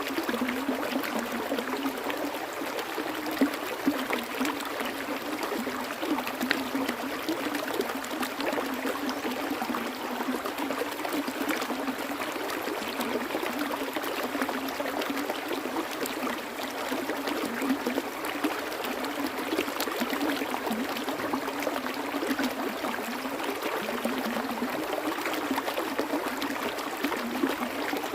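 A stream of flowing water, a steady rush with many small splashes and gurgles and no pause.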